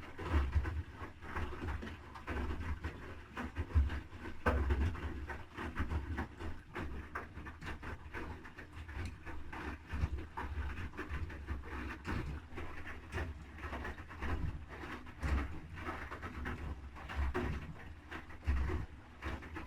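Haier I-Pro Series 7 front-loading washing machine tumbling its drum during a quick 40°C wash: irregular low thuds from the turning drum and load, with a wet rustling over them.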